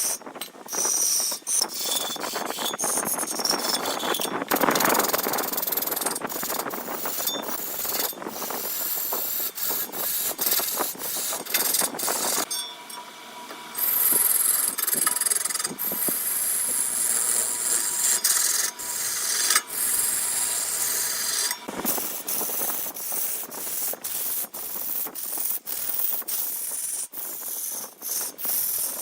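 A tool scraping and rasping against wood spinning on a wood lathe, with a constant patter of small ticks. About twelve seconds in the scraping drops away for roughly nine seconds, leaving a smoother steady hum with a few held tones, and then the scraping starts again.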